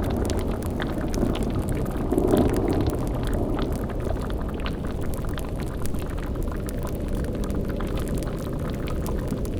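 Cauldron of liquid bubbling at the boil over a steady low rumble, with scattered small pops throughout and a brief swell about two seconds in.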